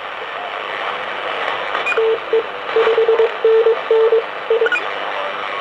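Shortwave amateur radio receiver hissing with band noise, with a Morse code signal coming through from about two seconds in: a single steady mid-pitched tone keyed in short and long elements for a few seconds.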